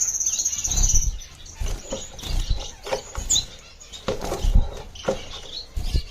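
Finch nest box being handled and put back in its cage: a series of low knocks and rustles, the loudest about four and a half seconds in. Small finches chirp over it, with one high, fluttering chirp at the start.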